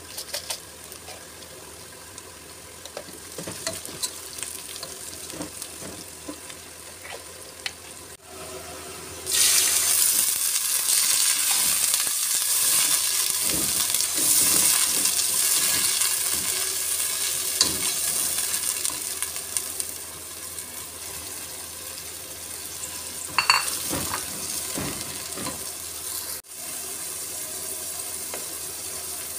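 Whole spices and fried onions sizzling in hot oil in a pot, stirred and scraped with a plastic slotted spatula. About nine seconds in, the sizzling suddenly gets much louder and then eases off over the next ten seconds, with a short ringing clink of the spatula on the pot a little later.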